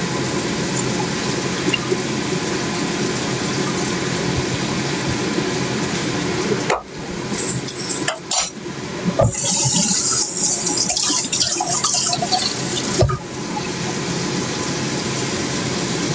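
Cooking sounds: a steady hiss, a few knocks of a utensil against a pan, and about three seconds of louder, higher sizzling around the middle.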